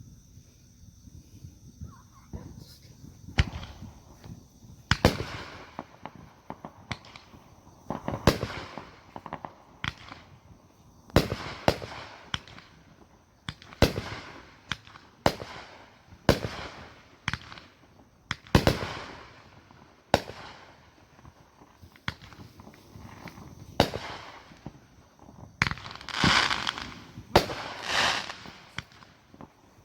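Fireworks going off: a long run of sharp bangs, one every second or two, with denser crackling bursts near the end.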